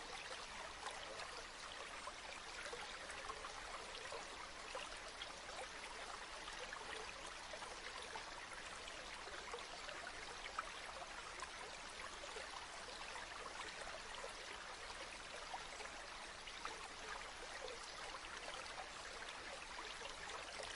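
A river or stream flowing steadily, a continuous even babble of running water with fine splashes and trickles.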